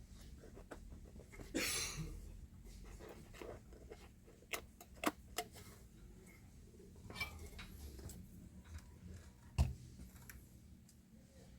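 Scattered light clicks and taps of hand work on a speaker part, with a brief scraping rub about one and a half seconds in and a sharper knock near the end.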